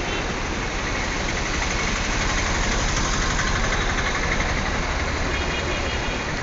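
Steady rushing of a flooded river, with a low engine-like rumble that swells through the middle.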